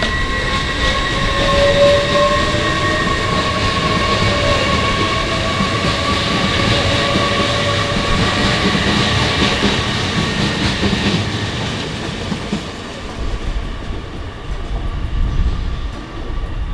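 Great Western Railway Class 800 train moving through the station: a steady whine of several high tones over running rumble and wheel noise, with one tone rising slightly, fading away after about twelve seconds.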